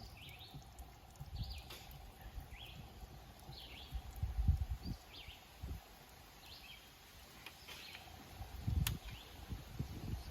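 A bird chirping over and over, short falling chirps about one a second, with low handling thumps in between, loudest around four and nine seconds in.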